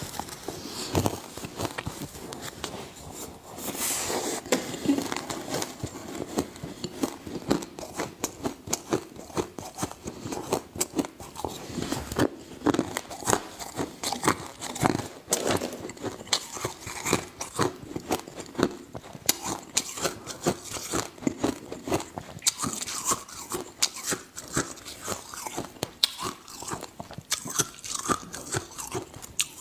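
Close-miked biting and chewing of ice: many sharp, irregular crunches in quick succession as the ice cracks between the teeth.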